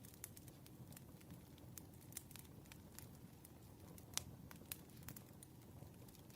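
Campfire crackling softly: a low steady rumble of burning wood with scattered sharp pops, the loudest about four seconds in.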